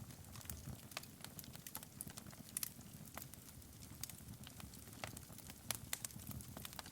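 Wood fire burning in a fireplace: irregular sharp crackles and pops over a soft low rumble of the flames, a few louder pops near the end.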